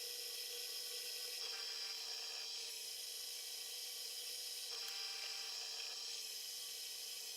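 Drill press motor running steadily while holes are bored into wood one after another, the sound shifting every second or two as the bit cuts in and lifts out.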